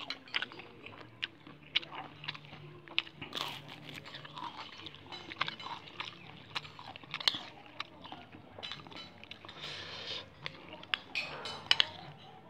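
Close-up chewing of crisp fried tempeh with rice: a run of sharp, irregular crunches.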